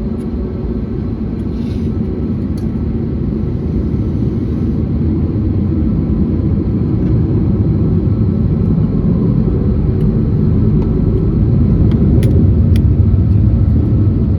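Airbus A321neo cabin noise: a deep, steady rumble from its Pratt & Whitney geared turbofans and the rolling airframe, growing steadily louder, with a couple of sharp rattles near the end.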